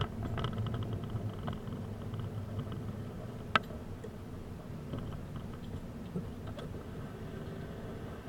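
A car running with a steady low rumble. There is rapid light ticking in the first couple of seconds and a sharp click about three and a half seconds in.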